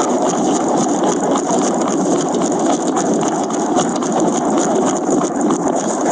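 A vehicle running, heard as a loud, steady rushing noise with rattling.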